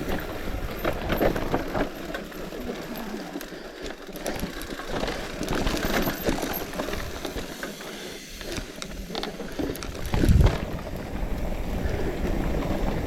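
Bicycle rolling over a slippery clay-mud trail: tyre noise on dirt with constant small rattles and clicks from the bike, and one heavier thump about ten seconds in.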